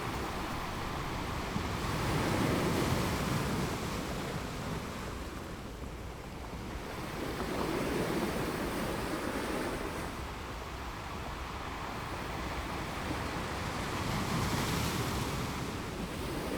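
Ocean surf: waves breaking and washing up on a beach, swelling three times, with some wind on the microphone.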